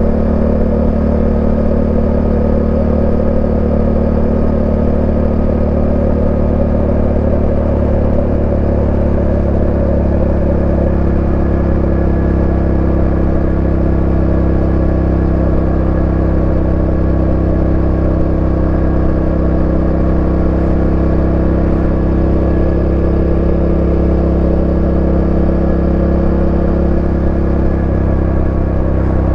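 Yamaha Ténéré 700's 689 cc parallel-twin engine running under way at a nearly steady speed, its pitch holding level with only slight drift.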